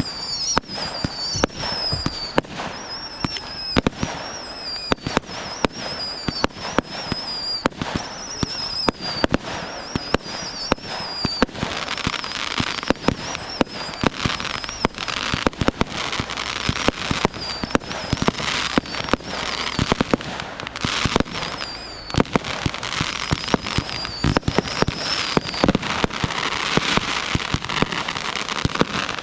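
Fireworks going off in quick succession: a steady run of sharp bangs. Through the first third, high falling whistles repeat under the bangs; after that a dense crackling hiss takes over, with bangs still going off.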